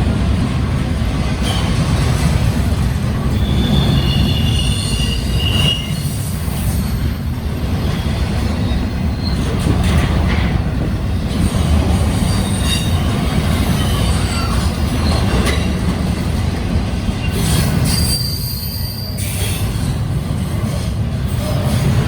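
Union Pacific double-stack intermodal freight train rolling past, its container cars making a steady low rumble. Thin, high wheel squeals come in about four seconds in and again near the end.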